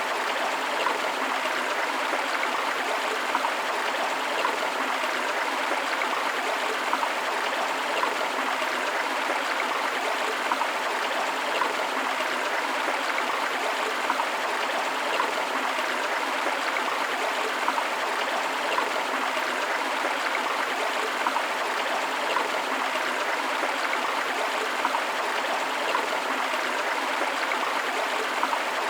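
A river or stream flowing steadily over rocks, a constant rushing of water with small splashes and gurgles flickering through it.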